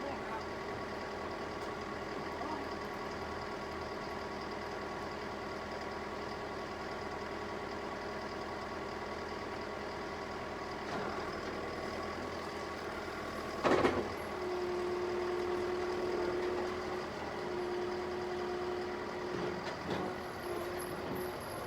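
Heavy machine's diesel engine running steadily, with one sharp clank about two-thirds of the way through, followed by a steady whine that breaks off and resumes several times.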